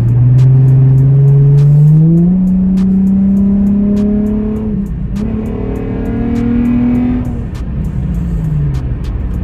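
Car engine, fitted with an aftermarket intake, accelerating under load: its pitch climbs over the first two seconds, dips sharply about halfway through, climbs again, then falls away as the throttle eases off near the end.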